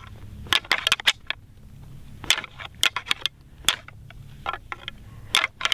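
Pair of rattling antlers clashed and ground together in short bouts of sharp clacks, mimicking two bucks fighting to call in a whitetail buck.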